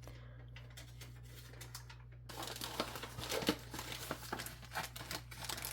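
Plastic meal-ration packaging crinkling and rustling as it is handled, sparse at first and busier from about two seconds in, over a steady low hum.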